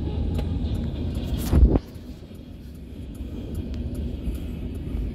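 Freight train rolling past, heard as a steady low rumble from inside a car, with faint ticking throughout. About a second and a half in, a brief loud whoosh sweeps down in pitch, and the rumble is a little quieter after it.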